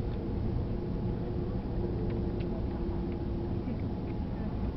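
Airbus A330 cabin noise: a steady low rumble of the engines and airframe with a faint hum, and a few light rattles.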